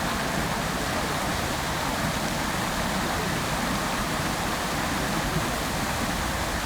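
A fountain's water jets splashing into the basin: a dense, even rush of falling water.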